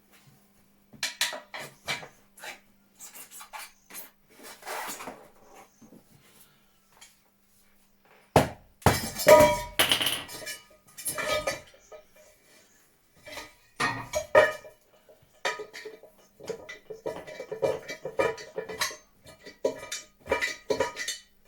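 Metal tools and motorcycle parts clinking and clattering as they are handled and set down during disassembly, with a heavier clatter about eight to ten seconds in.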